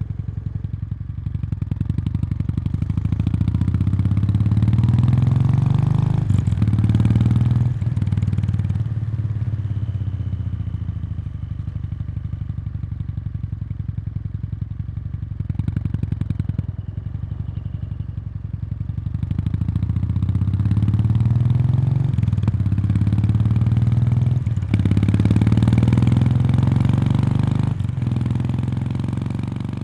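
Kawasaki Meguro K3's air-cooled 773 cc parallel-twin running through its stock exhaust while riding: the engine note climbs twice with short breaks at the gear changes, and settles lower in between.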